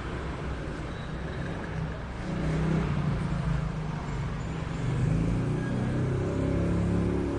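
A motor running with a low, steady pitched hum that gets louder about two seconds in.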